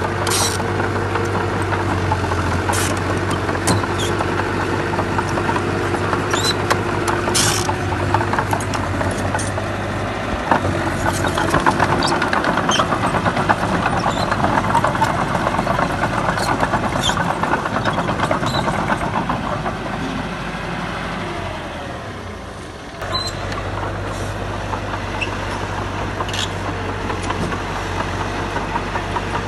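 Diesel engine of a heavy earthmoving machine running steadily, with scattered clanks and knocks. It grows louder and busier through the middle, as under load, eases off, then changes suddenly about three-quarters of the way through.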